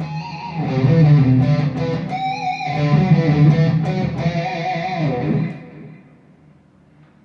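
Electric guitar played through a Mooer GE100 Pro multi-effects preset: a short phrase of melody notes over a held low note, which rings out and dies away about five and a half seconds in.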